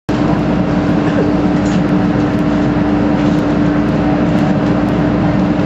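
Steady hum of an MTR Metro-Cammell (MLR) electric train's onboard equipment while it stands at a platform, heard inside the car: one constant tone over a dense, even rumble.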